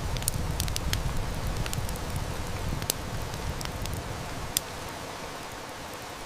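Wood fire crackling with many small sharp snaps, two louder pops among them, over the steady hiss of heavy rain. A low rumble swells through the first few seconds and then eases.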